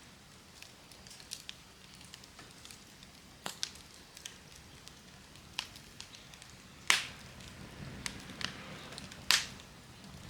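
Wood campfire crackling with scattered sharp pops, two of them much louder, about seven and nine seconds in.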